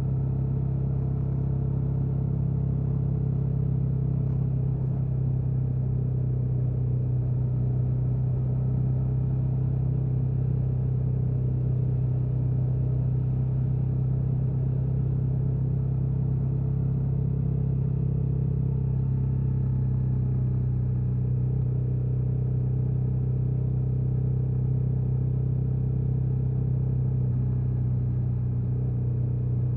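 KTM 1290 Super Adventure S's 1301 cc V-twin running through its stock exhaust at a steady, unchanging engine speed, with a strong low note.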